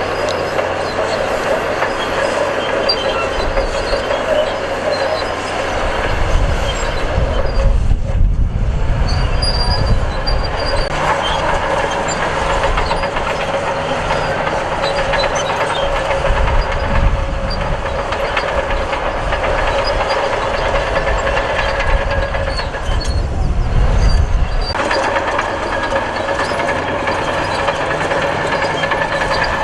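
Crawler bulldozer's diesel engine running as it moves on clanking steel tracks. The sound swells louder and deeper three times: about six seconds in, around sixteen seconds and about twenty-two seconds in.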